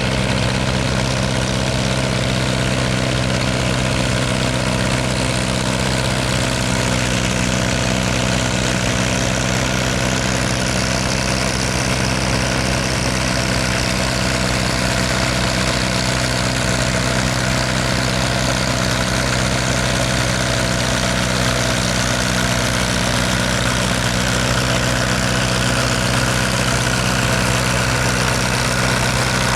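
Heavy diesel tractor engine running at a steady speed, with an even, unchanging note.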